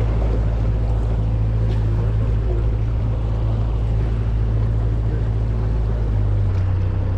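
Boat motor running steadily with a low drone; its note shifts about six and a half seconds in.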